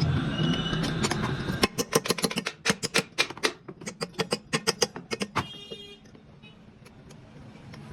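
A quick, irregular run of sharp taps and clicks, about five a second for some four seconds, after a low steady noise fades out; a brief buzzing tone follows near the end of the taps.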